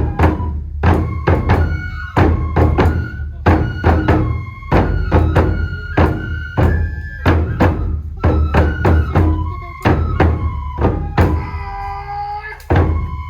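Traditional Japanese nenbutsu kenbai accompaniment: taiko drums struck rapidly, several strokes a second, under a bamboo flute holding high notes.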